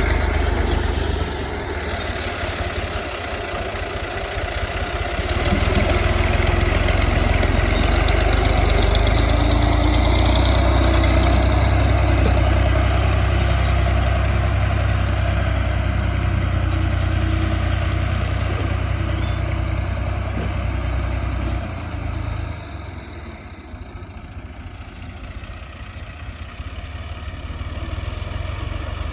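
Farm tractor's diesel engine running with a deep, steady note. It grows louder a few seconds in, eases off about three-quarters of the way through, and picks up again near the end.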